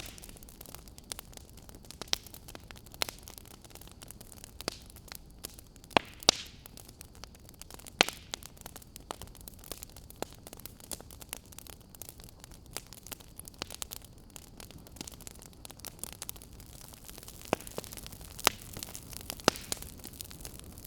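Wood fire crackling in a fireplace: a steady low hiss with irregular sharp pops and snaps, a few louder ones scattered through.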